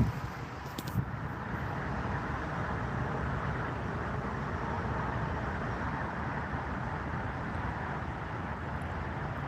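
Steady, distant engine roar, an even rushing noise that holds its level throughout, with a faint tick about a second in.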